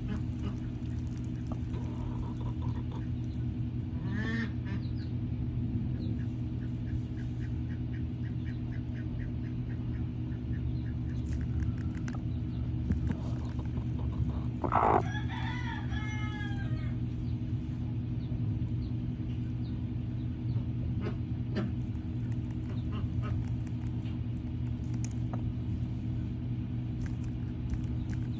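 Poultry calling over a steady low hum: one call about four seconds in, a run of quick repeated short calls a little later, and a louder honking call with a falling pitch about fifteen seconds in.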